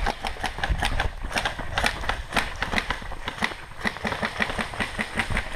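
Running footsteps over dirt and brush, a few strides a second, with gear rattling and low rumble on the body-worn microphone.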